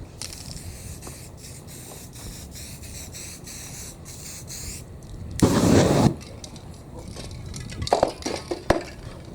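Aerosol spray-paint can spraying in short hissing bursts with brief gaps between them, then one much louder rush about five seconds in, followed by a few sharp ticks near the end.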